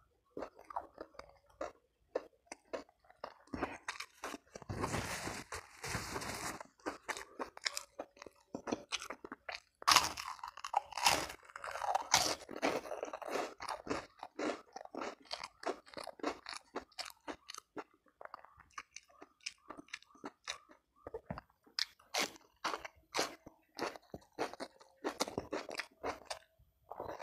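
Close-miked chewing and crunching of crisp food, many short wet bites one after another, with two denser, louder runs of crunching about five seconds in and around ten to thirteen seconds in.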